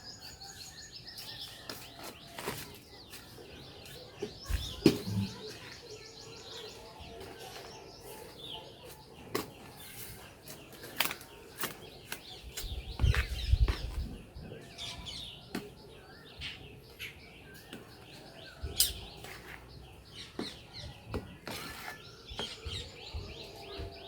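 Small birds chirping and twittering on and off, with scattered sharp clicks and a few low thumps, one about five seconds in and a cluster around thirteen to fourteen seconds in.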